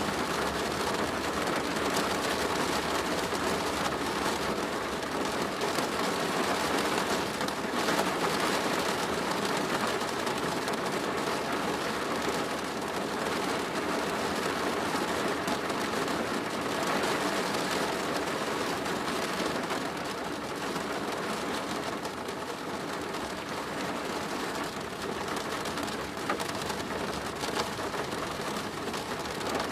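Steady rain drumming on a plastic roof, a dense patter of drops with no single event standing out.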